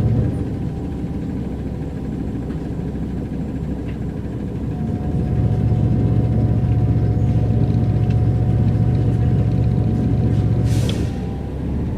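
Mercedes-Benz O405 N² city bus's diesel engine and Voith automatic gearbox while driving, heard from inside the bus: the drone eases off about half a second in, pulls louder again for about six seconds from the middle on, then drops back near the end with a short hiss of air.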